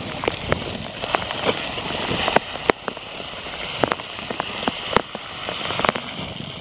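Freezing rain and sleet falling: a steady hiss with sharp, irregular ticks of ice pellets striking close by.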